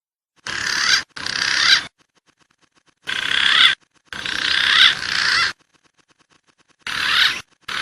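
Green pigeon (punai) whistled calls with wavering, gliding pitch, heard in six short bursts that start and cut off abruptly with dead silence between them: a looped, edited bird-lure recording.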